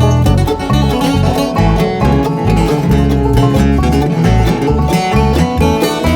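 Bluegrass band playing an instrumental break: rapid banjo picking over guitar, with low bass notes on a steady beat.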